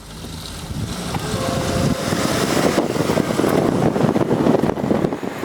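Rushing vehicle noise with wind buffeting the microphone, growing louder over the first two seconds and then holding steady.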